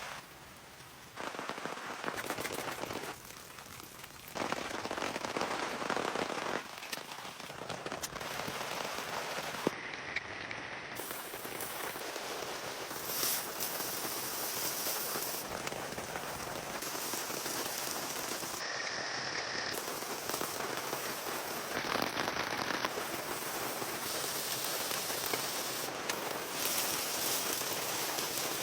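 Steady rain falling and pattering on a surface, with many small sharp drop impacts. The level jumps abruptly a few times in the first seconds.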